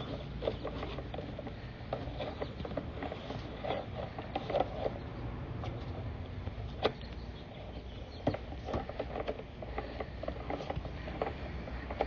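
Drain inspection camera and its push cable scraping and knocking along the inside of a pipe: a run of irregular small scrapes and rustles with a couple of sharper clicks.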